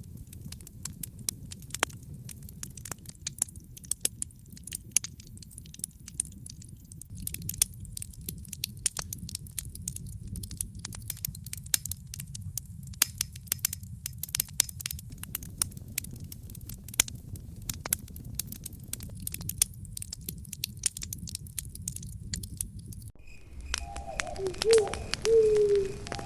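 Campfire burning, its wood crackling and popping in many quick snaps over a low steady rumble. Near the end an animal gives a few short low calls.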